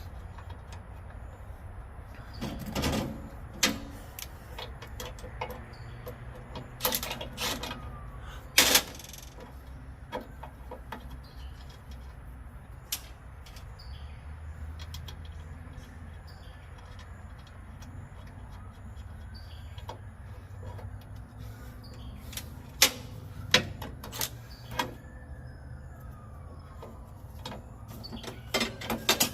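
Scattered clinks and knocks of hand tools on truck parts, over a steady low hum, with faint chirps in the background.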